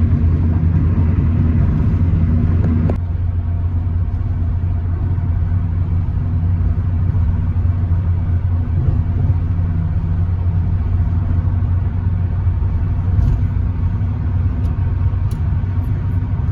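Car cabin noise while driving: a steady low engine and road rumble. About three seconds in, the hiss above the rumble drops abruptly.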